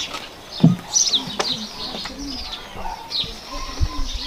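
Small birds chirping in short high calls, with a few sharp knocks, the loudest about two-thirds of a second in.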